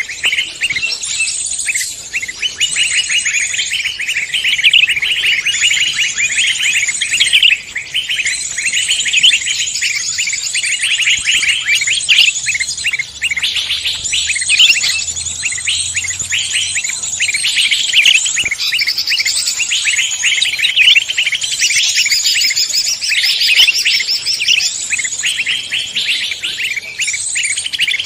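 A dense chorus of many songbirds singing and chirping at once, rapid overlapping trills and whistles without pause, as used in a bird-luring recording.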